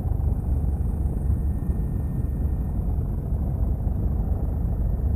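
Helicopter in flight, its rotor and engine noise heard from inside the cabin as a steady low drone.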